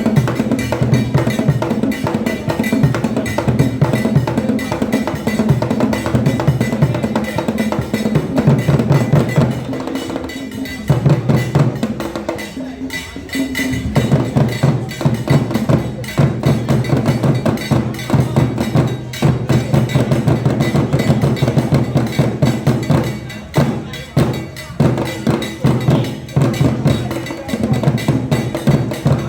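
Adowa percussion music: drums with a bell or wood-block-like strike keeping a dense, steady rhythm. It thins out briefly about ten seconds in, then picks up again.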